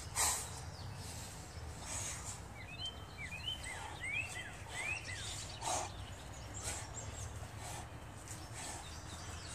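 Outdoor ambience: a bird gives a quick run of short chirps a few seconds in, over a faint steady low hum and a few soft puffs of noise.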